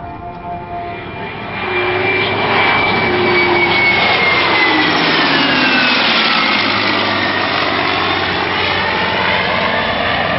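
A formation of a P-51 Mustang, an F-15E Strike Eagle and an A-10 Thunderbolt II flying past. Loud jet engine roar builds about two seconds in and holds, with a high whine that drops in pitch as the aircraft go by.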